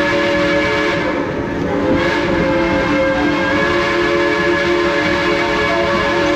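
Steam locomotive whistle blowing a long, steady multi-note chord, with a short break about a second in before it sounds again.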